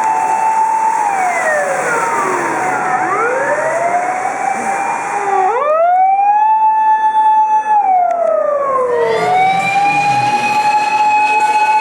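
Emergency vehicle siren on an urgent run, a slow wail that rises, holds a long steady top and falls again, repeating. In the first few seconds a second siren overlaps, falling and rising out of step with the first.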